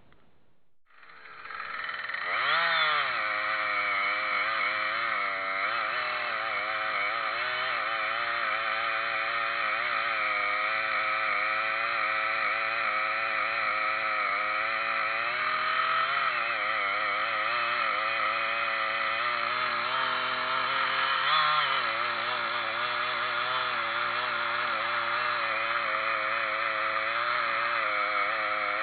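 Chainsaw engine running at high speed, its pitch wavering up and down. It comes in about a second in and stays loud and steady from there.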